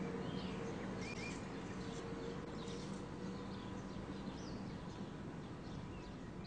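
Faint, short bird chirps scattered over a steady background hiss with a low hum.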